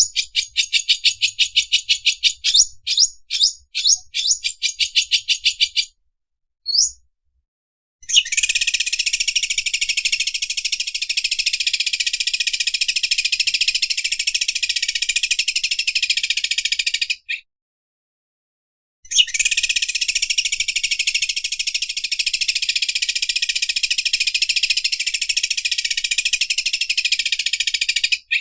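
Cucak ijo (green leafbird) singing its 'overlock machine' song. It opens with a run of quick, repeated high chirps for about six seconds, then gives two long, fast, buzzing trills of about nine seconds each, with a short pause between them.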